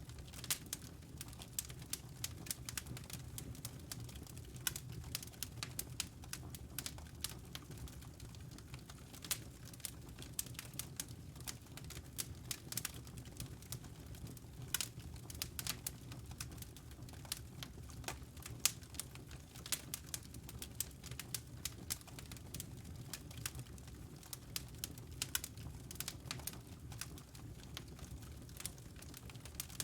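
Wood fire burning in a fireplace: a steady low rumble of flame with irregular sharp crackles and pops from the burning logs, a few louder pops among them.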